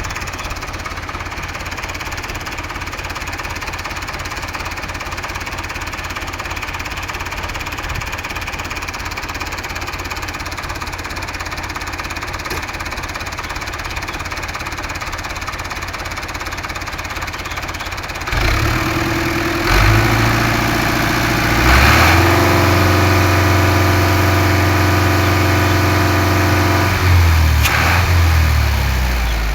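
Fiat 640 tractor's diesel engine idling with an even, steady knock, then revved up about two thirds of the way in, running louder and higher with the pitch stepping up and down a few times before it drops back near the end.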